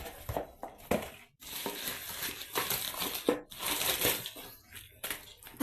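Packaging crinkling and rustling in irregular bursts as it is handled, with a sharp knock near the end.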